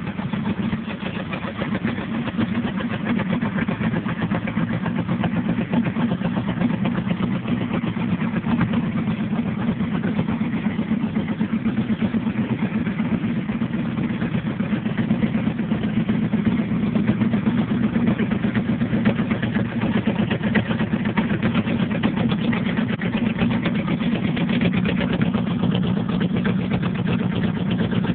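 1979 Honda Goldwing's 1000cc flat-four engine idling steadily through an aftermarket Harley-Davidson exhaust.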